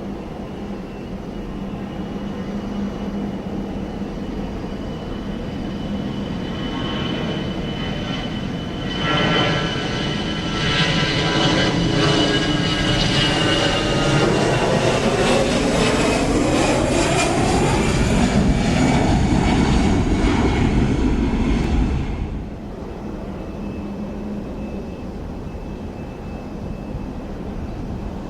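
Jet airliner passing close by: its engine noise swells from about six seconds in, with a whine that slides down in pitch as it goes past, then cuts off suddenly about two-thirds of the way through.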